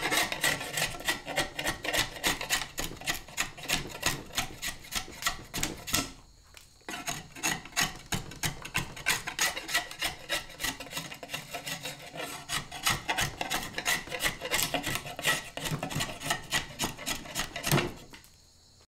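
Homemade round draw knife scraping wood in quick repeated strokes, about three a second, with a brief pause about a third of the way in; it stops shortly before the end.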